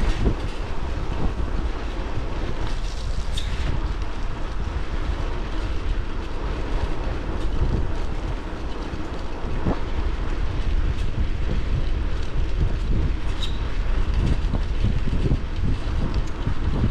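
Wind buffeting the microphone of a camera on a folding bike riding downhill, over the rumble of tyres on the road, with a few sharp clicks and rattles from the bike.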